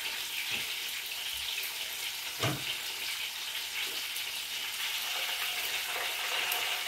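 Hot oil sizzling steadily as Jamaican fried dumplings shallow-fry in a pan, with a single knock about two and a half seconds in.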